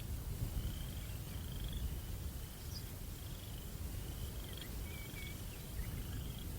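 Night ambience: a cricket chirps in short trills about once a second over a steady low rumble of breeze, with a few faint higher calls in between.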